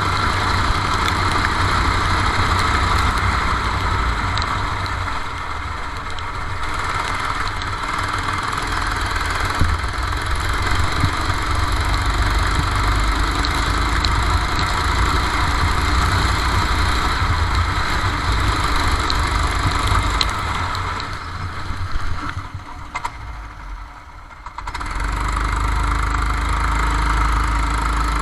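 Racing kart engine running under way, heard from onboard the kart. It dips for a few seconds about three-quarters of the way through, then picks up again.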